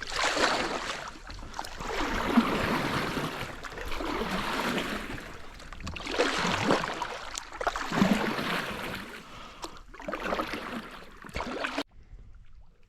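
Kayak paddle strokes splashing and swishing through river water, one swell of sound roughly every two seconds, stopping abruptly near the end.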